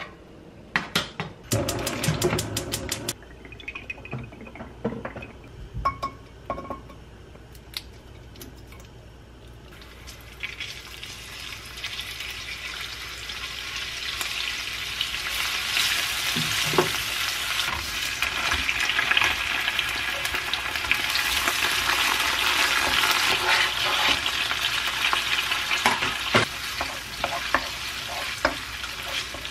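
A knife chops quickly on a plastic cutting board for about two seconds, then a few scattered light clicks follow. About ten seconds in, oil starts sizzling in a nonstick wok, growing steadily louder as garlic, chili and shrimp fry, with occasional taps of a wooden spatula stirring.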